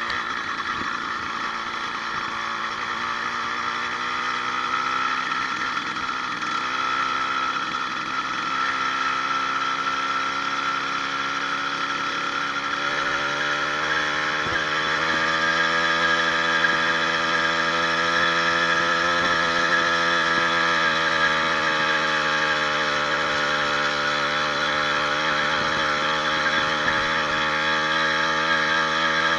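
80cc two-stroke motorized bicycle engine, fitted with a new needle wrist pin bearing, running under load while riding. Its pitch climbs about halfway through, drops back, then climbs again.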